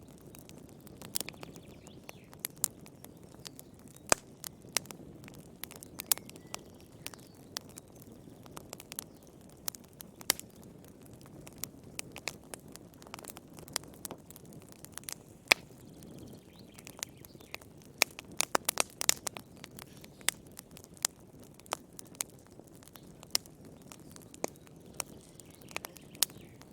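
Wood fire in a fireplace crackling: irregular sharp pops and snaps over a soft low rumble of burning, with a quick flurry of pops about two-thirds of the way through.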